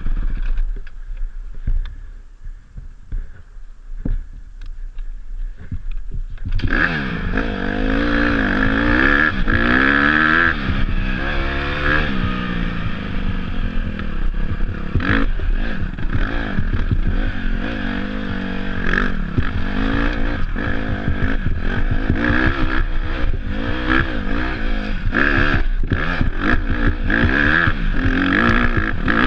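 Dirt bike engine revving up and down as it is ridden off-road, with clatter from the bike over rough ground. It is quieter for the first six seconds or so, then the engine comes on loud and keeps rising and falling in pitch.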